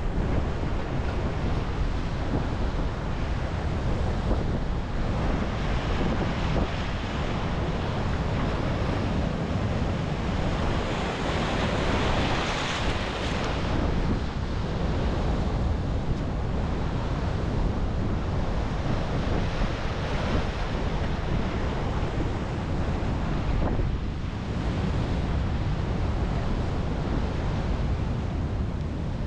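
Sea surf breaking on a beach in a continuous wash, with one wave swelling louder about twelve seconds in, and wind buffeting the microphone as a low rumble.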